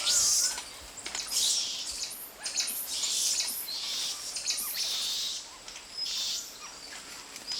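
High-pitched animal calls: rasping, hissy bursts about once a second with small chirps in between.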